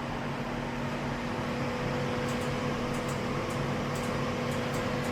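Steady hum and hiss of ventilation or air-handling equipment in a factory hall whose printing machines are switched off. A low electrical-sounding drone runs under it, with faint light ticks every second or so.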